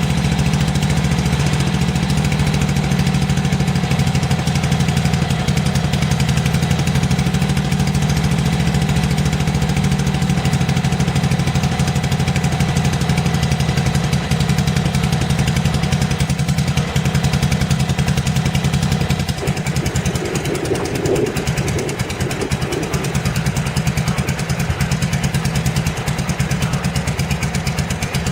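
BSA 441 single-cylinder four-stroke motorcycle engine running steadily, its note changing for a few seconds about twenty seconds in.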